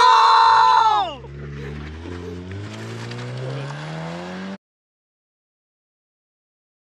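A loud whooping shout, then a car engine accelerating away with its pitch rising steadily for about three seconds, cut off abruptly.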